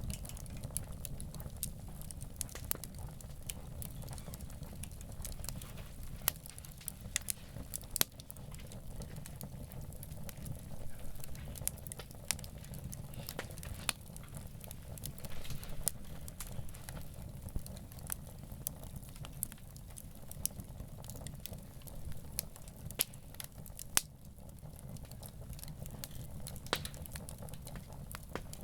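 Wood campfire crackling, with irregular sharp pops and snaps, a few louder ones, over a low steady rumble.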